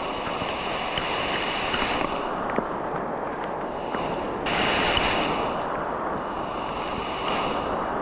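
Steady rush of flowing water, swelling louder about four and a half seconds in.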